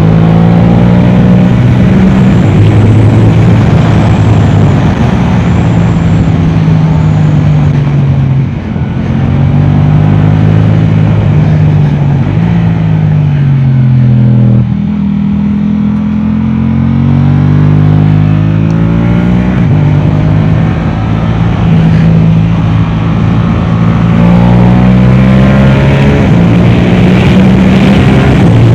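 Yamaha R7's parallel-twin engine through an Akrapovic exhaust, lapping a track under hard acceleration: the pitch climbs through each gear and drops back at every upshift. About halfway through, the revs fall away in a long glide as the bike slows for a corner, then it pulls up through the gears again.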